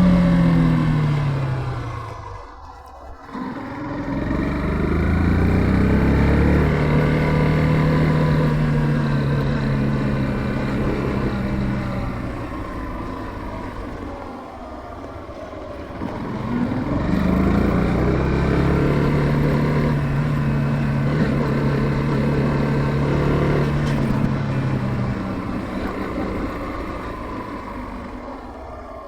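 Yamaha FZ15's single-cylinder engine under way, pitch rising and falling through several cycles. It slows to a low dip about three seconds in, speeds up and holds steady, eases off around the middle, picks up and holds again, then drops off near the end.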